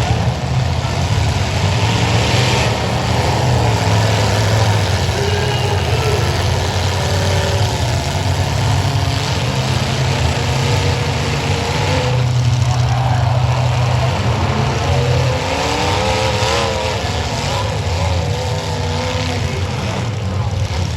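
Demolition derby cars' engines running and revving together, a steady loud rumble with pitch rising and falling as they accelerate.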